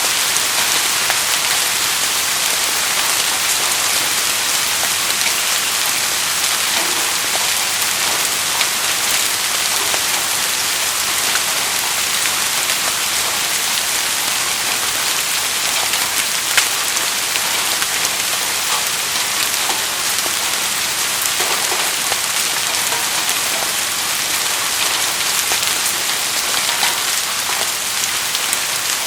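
Steady rainfall, an even hiss of rain with scattered drop ticks, and one sharper drop hit about halfway through.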